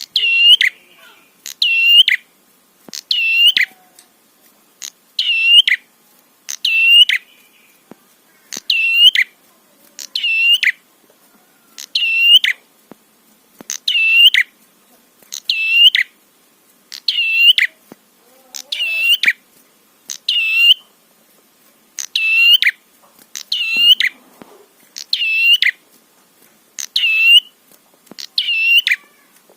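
Prenjak (prinia) calling: a short, sharp, high call repeated over and over, about one every one to two seconds, in an even unbroken series.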